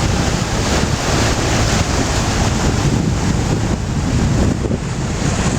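Wind buffeting the microphone over the steady rush of water past a moving boat's hull.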